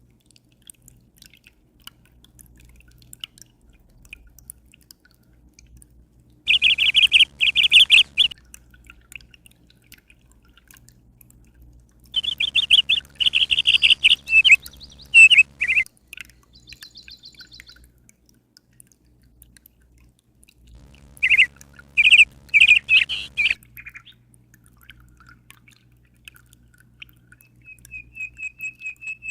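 A songbird singing in three loud bursts of chirping phrases, with a faint trill near the end. Under it runs a faint steady low hum.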